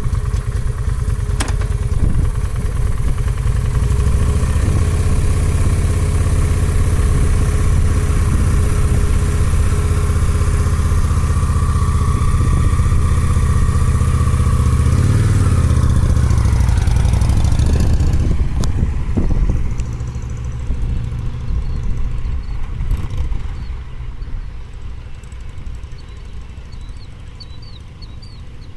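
Motorcycle engine running in first gear, loud and steady for about eighteen seconds with a brief dip and rise in pitch, then fading as the bike moves away. Birds chirp faintly near the end.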